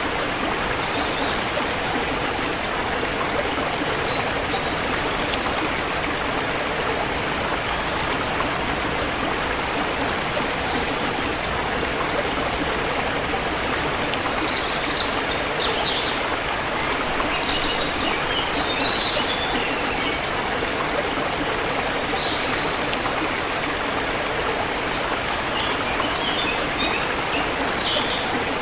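Forest river flowing in a steady, even rush of water, with small birds chirping now and then over it in the second half.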